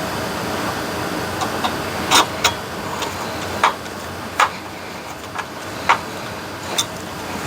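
Sharp clicks and taps of a screwdriver and plastic parts as an instrument cluster is screwed back together, about nine in all at uneven intervals, over a steady background hum.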